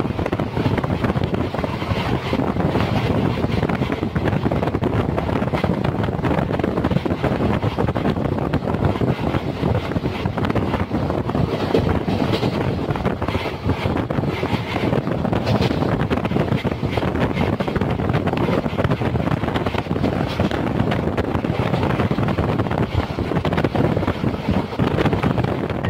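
Wind rushing over the microphone at the open doorway of a moving passenger train, over the steady low rumble of the coach running on the track.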